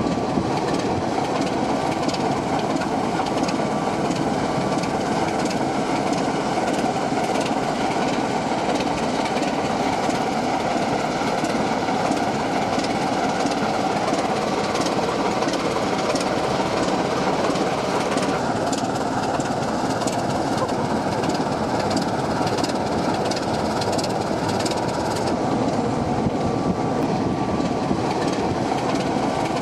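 Bachmann OO gauge model Class 24 diesel locomotive running along the track: a steady running noise with fine, rapid clicking of the wheels over the rail.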